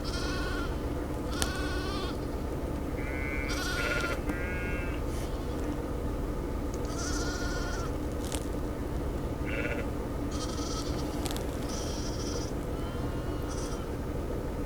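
Young Angora goats and lambs bleating: about a dozen separate calls, some high and thin, some lower, scattered one after another, over a steady low hum.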